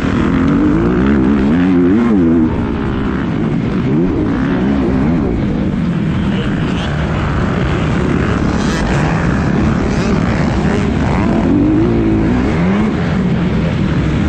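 Motocross bike engine running hard under race load, its pitch rising and falling again and again as the throttle is opened and closed, over a steady noisy rush.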